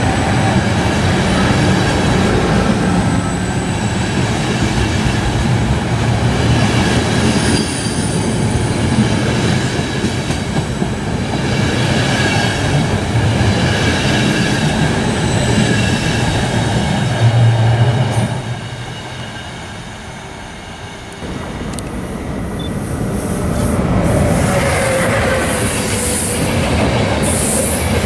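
EuroCity train hauled by an ÖBB Class 1216 electric locomotive rolling past, its wheels running on the rails with a high steady squeal and some clickety-clack. The sound drops away for a few seconds about two-thirds of the way through, then a second such train rolls past with the same squeal.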